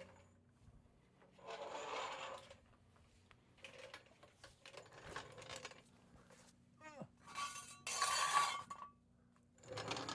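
Metal tools and parts clinking and scraping in several short bursts, the loudest about eight seconds in.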